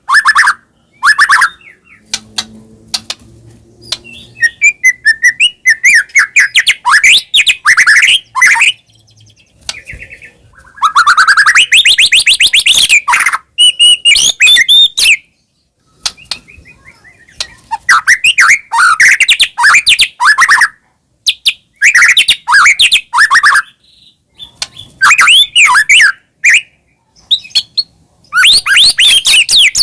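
White-rumped shama (murai batu) singing loudly in rapid, varied phrases of sweeping whistles, trills and sharp clicks, broken by short pauses. The song is packed with mimicked phrases ("full isian").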